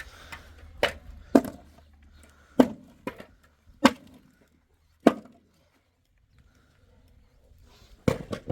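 A series of sharp chopping blows, about eight in all, at an uneven pace, with a pause of a couple of seconds after the sixth and a quick double blow near the end.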